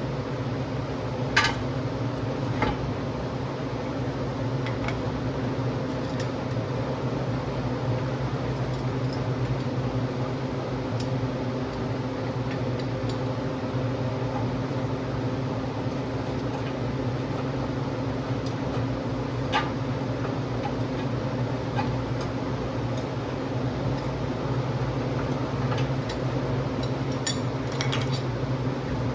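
A steady mechanical hum, with a few light metallic clicks and clinks scattered through it; the loudest comes about a second and a half in.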